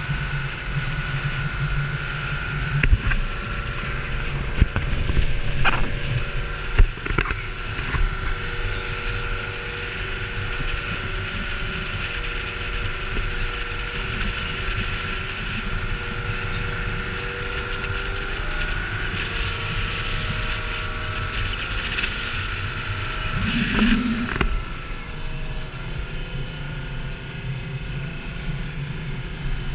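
Speedboat's outboard motor running steadily under way, with wind and water noise, and a few sharp knocks in the first several seconds.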